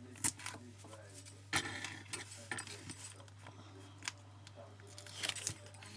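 Paper card pieces and small craft supplies handled on a desk: light rustling with scattered clicks and taps, several close together near the end.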